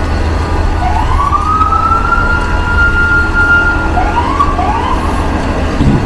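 Emergency-vehicle siren: a wail that rises and holds steady for a few seconds, then two short rising whoops, over a steady low street rumble.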